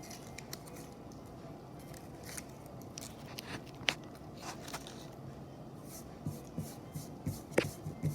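Irregular crisp crunches and clicks, with a sharper crack about halfway through and another near the end, where a quick run of small knocks comes in.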